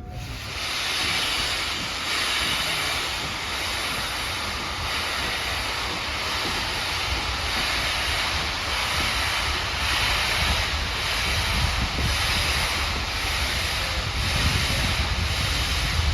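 LNER B1 steam locomotive working a train, its exhaust beats giving an even pulse over a steady rushing noise, with wind buffeting the microphone.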